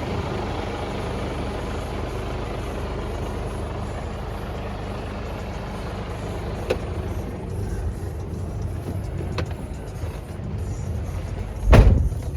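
Mercedes-Benz Actros 1948 truck's six-cylinder diesel engine idling steadily, with a couple of light clicks and a heavy thump near the end.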